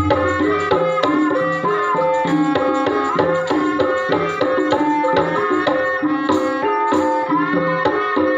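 Javanese gamelan music for an ebeg hobby-horse dance: metal percussion playing a steady melody over hand-drum strokes.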